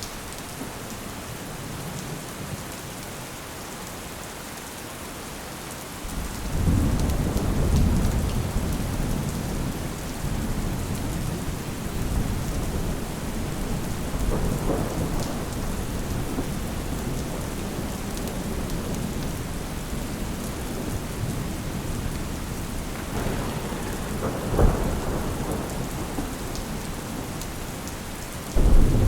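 Steady rain with rolling thunder. About six seconds in a low rumble swells up suddenly and rolls on, fading slowly. A second roll comes near the end with a sharp crack, and a louder low rumble breaks in just at the close.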